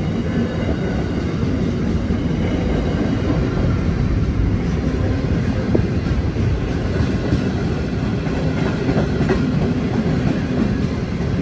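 Freight train's container flat wagons, some empty and some loaded with shipping containers, rolling past close by: a steady rumble and clatter of wheels on the rails.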